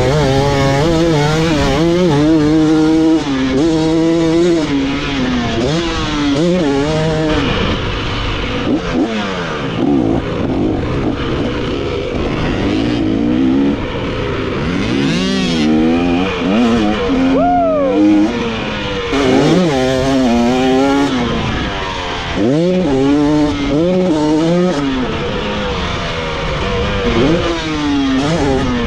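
Dirt bike engine revving hard around a motocross track, its pitch climbing and dropping again and again as the rider works the throttle and shifts through the gears.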